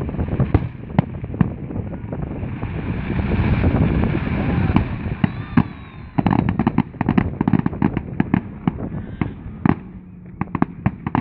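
Fireworks display going off: repeated sharp bangs, with a dense run of rapid crackling bangs from about six seconds in and another rapid run near the end.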